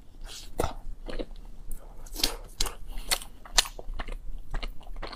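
A bite into a chocolate-coated bread roll, then close-miked chewing: a run of short, irregular mouth clicks and smacks, the sharpest about three and a half seconds in.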